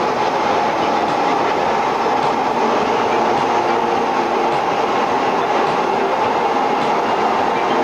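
Jet engines of the Aermacchi MB-339 formation in flight: a steady, continuous roar with a few faint held tones in it and no change in loudness.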